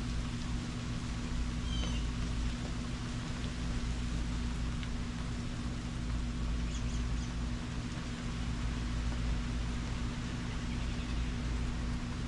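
Steady rain during a thundershower, with a low steady hum beneath it and a few brief high-pitched calls about two and seven seconds in.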